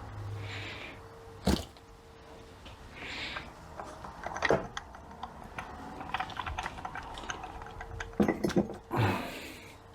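Small metal transmission parts clinking and ticking as they are handled, with a few sharp knocks: one about a second and a half in, one about halfway, and a quick cluster near the end.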